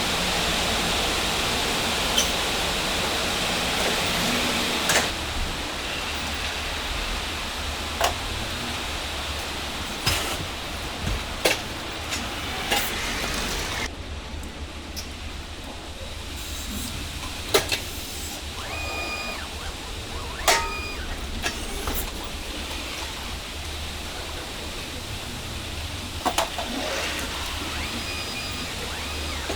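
Steady rushing background noise with scattered knocks and clunks, about ten in all, as boxed refrigerators are handled during unloading from a shipping container. The rushing thins about halfway through, and a few brief high beeps come in the second half.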